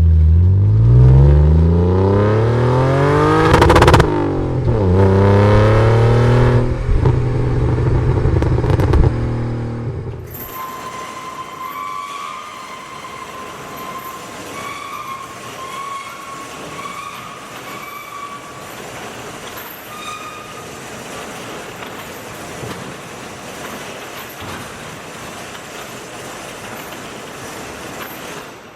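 Subaru WRX STi's turbocharged flat-four engine accelerating hard: the pitch climbs, drops sharply at a gear change about four seconds in, climbs again and then holds steady before cutting off about ten seconds in. After that there is only a much quieter steady background with faint, short high chirps.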